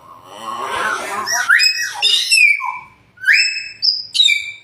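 Hill myna calling: a harsh, noisy call in the first second, then a run of clear whistles, rising glides and short held notes.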